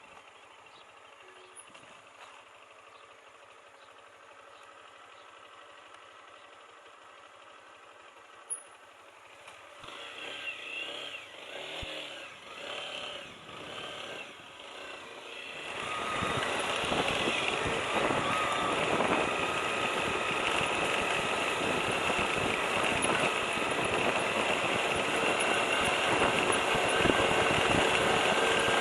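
Lifan KPT200 motorcycle being started: several short bursts of cranking, then about halfway through the engine catches and runs steadily.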